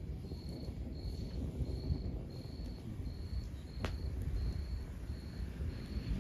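Wood fire burning with a low, steady rumble and one sharp crackle pop about four seconds in, while a cricket chirps in an even rhythm about twice a second.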